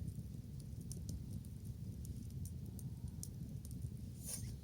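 Wood bonfire crackling: scattered sharp pops and snaps over a steady low rumble, with one louder crackle near the end.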